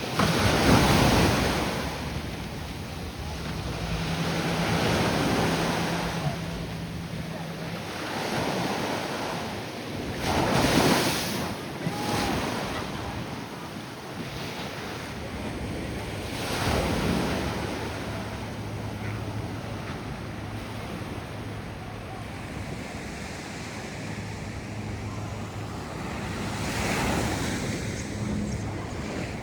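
Ocean waves breaking and washing onto the beach, swelling and fading every few seconds, with wind buffeting the microphone.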